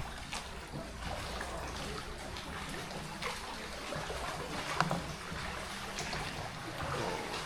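Water splashing and trickling around a hand-rowed boat as the oars dip and pull, with a few short sharp knocks, the sharpest about five seconds in.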